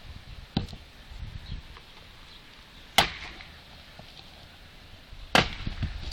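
Axe chopping firewood: three sharp strikes on the wood, about two and a half seconds apart, the first lighter and the last two loud.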